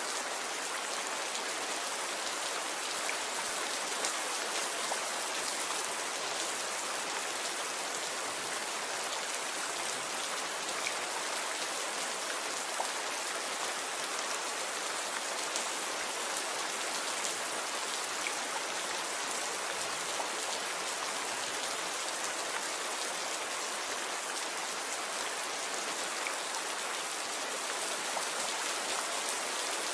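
Steady rain falling: an even hiss with the odd sharper drop tick standing out now and then.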